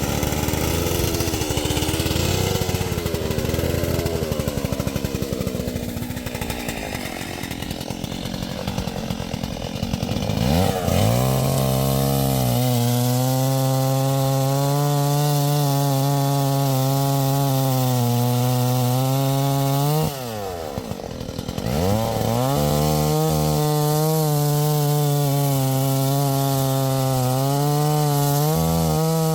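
Two-stroke chainsaw, a STIHL MS 381, running unevenly at part throttle for about ten seconds. It then goes to full throttle and holds a steady high note, eases off briefly about two-thirds of the way through, and goes back to full revs.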